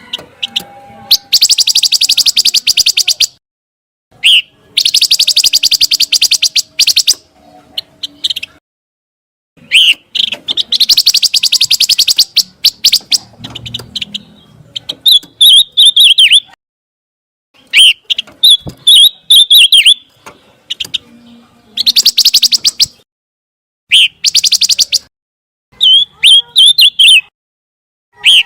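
Pancawarna bird song: phrases of fast, dry rattling trills, each lasting a second or two, alternate with short, high warbled whistles. The phrases are separated by brief silent gaps, as in a looped recording.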